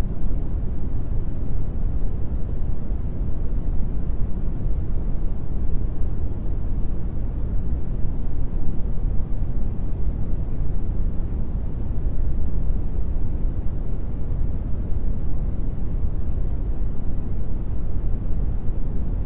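Brown noise: a steady, even rumbling hiss, strongest in the low end and fading toward the highs, with no changes.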